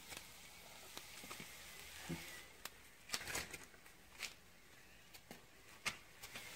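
Faint, scattered clicks and light knocks, about a dozen spread over several seconds, from the fireplace grill as cooked fish is taken off it.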